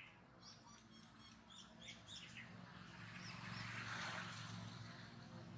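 Faint bird chirps: a quick run of short, high chirps in the first two seconds or so, then two more about halfway through, over a low steady hum.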